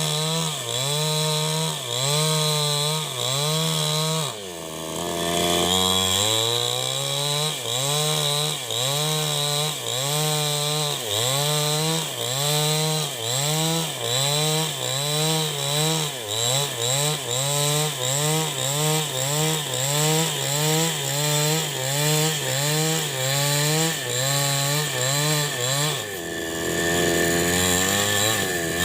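Large two-stroke New West 788 chainsaw cutting wood, typical of ripping a log lengthwise into beams. The engine pitch dips and recovers in a fast, even rhythm, a little more than once a second, as the chain takes the load; it drops briefly about five seconds in and settles into a steadier, lower note near the end.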